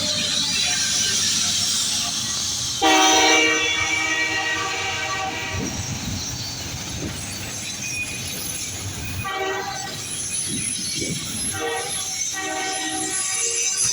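Freight train locomotive's air horn blowing a chord of several notes. A loud blast starts suddenly about three seconds in and fades over a couple of seconds, then shorter blasts follow later, over the steady rumble and rail noise of the train.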